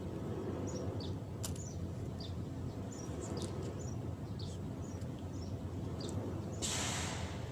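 A bird calling with short, high, falling chirps about once a second over a steady low background noise. Near the end, a brief rush of hissy noise lasts under a second.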